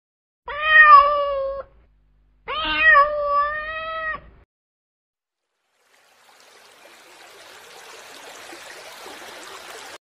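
Domestic cat meowing twice, two drawn-out calls about a second apart, the second longer. Later a rushing noise fades in, grows steadily louder and then cuts off suddenly.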